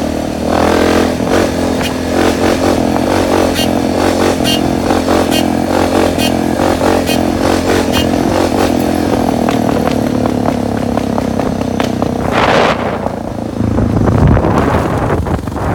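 Suzuki DR650 dirt bike's single-cylinder engine running steadily, with a clatter of sharp ticks over it. About twelve seconds in there is a brief rush of noise, and after it the engine note drops lower.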